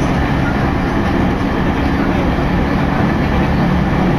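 JR Takasaki Line electric commuter train running between stations: a steady rumble of wheels and motors, with a low hum, heard from inside the passenger car.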